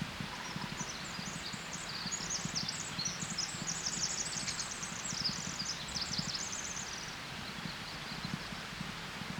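A small songbird singing a fast, high-pitched run of chirps and trills for about six seconds, over low rustling.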